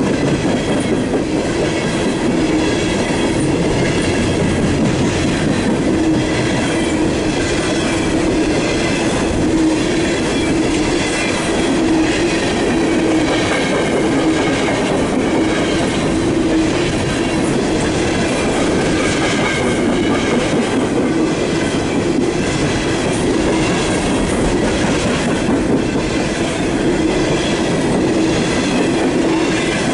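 Empty steel coal cars of a CSX coal train rolling past, loud and steady: the rumble and clatter of steel wheels on the rails, with a wavering high squeal of wheels against rail throughout.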